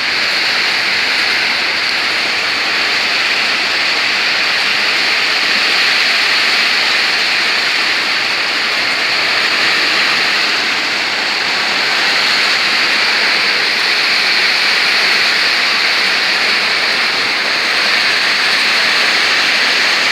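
Heavy rain pouring in a strong windstorm: a loud, steady rushing hiss.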